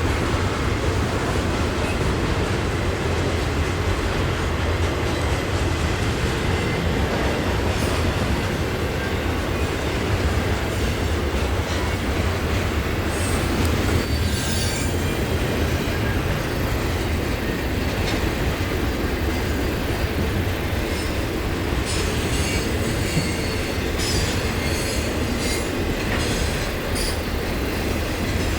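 Railcars rolling past at close range with a steady rumble and clack of wheels. High-pitched wheel squeal comes in about halfway through and recurs toward the end.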